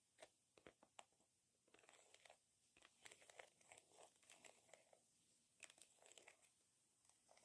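Long fingernails tapping and scratching on a surface: quiet, sharp clicks at first, then bursts of scratchy, crackling taps.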